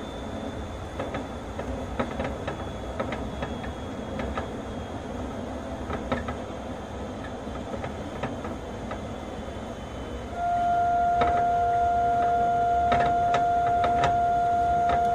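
Onboard running sound of an Astram Line 6000-series rubber-tyred guideway train: a steady rumble with scattered clicks and a faint high whine that slowly falls in pitch. About ten seconds in, a loud steady electronic tone starts and holds, with sharp clicks over it.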